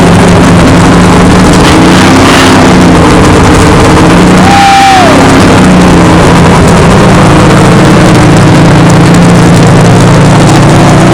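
Unmuffled V8 of a NASCAR Ford Fusion stock car running very loud at idle shortly after a cold start. About four and a half seconds in, the engine note briefly dips and then picks back up.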